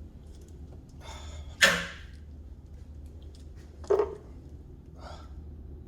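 Oiled fuel hose being forced by hand onto its fitting: three short sharp scraping knocks, the loudest about one and a half seconds in, another about four seconds in and a weaker one near the end, over a steady low hum.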